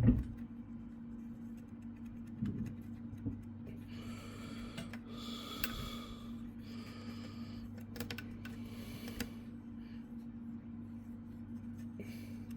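Tissue being rubbed over the laptop's CPU to wipe off old thermal paste: several soft swishing wiping strokes about four to nine seconds in, with a few light clicks, over a steady low hum.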